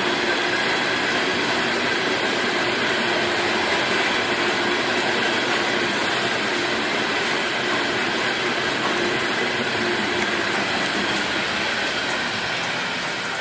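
A train rolling past, a steady continuous rumble of its cars on the rails that eases off slightly near the end.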